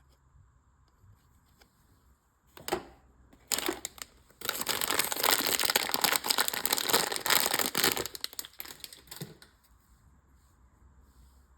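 Crinkling of plastic or foil packaging handled by hands, as a mystery pack is opened: a couple of brief crinkles, then a few seconds of dense, continuous crinkling that trails off.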